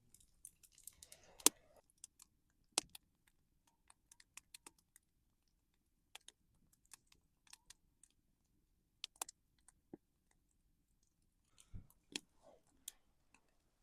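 Wood campfire crackling with scattered, irregular sharp pops, the loudest about a second and a half in.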